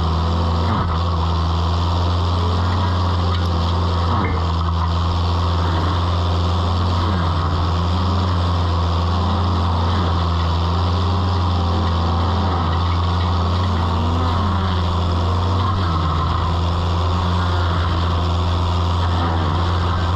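Toro Dingo mini skid steer running steadily at high throttle with its stump grinder attachment driven, with a whine that rises and falls every couple of seconds as the grinder is loaded and eased.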